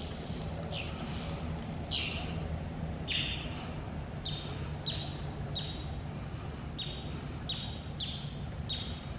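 A bird calling over and over: about ten short, high calls, each falling in pitch, with a steady low hum underneath.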